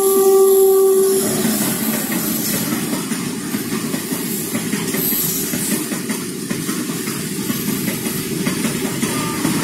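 Electric locomotive's horn holds one steady note that cuts off about a second in. After that a long goods train of open freight wagons rolls past with a steady rumble of wheels on rails.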